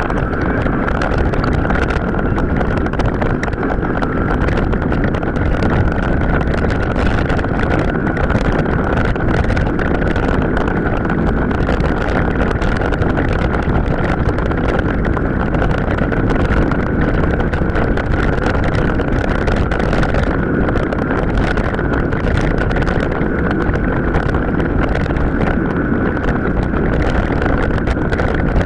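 Ride noise from a mountain bike on an off-road trail, played back several times faster than real speed: a dense, steady rush of wind on the microphone and tyre rumble, with a steady high whine over it.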